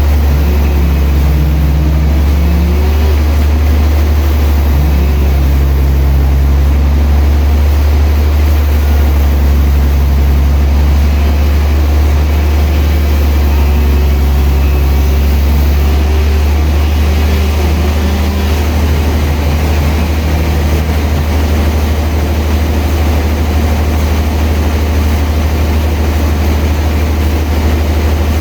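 Sawmill machinery running with a steady, loud, low engine drone, with fainter pitched tones wandering above it during the first two-thirds.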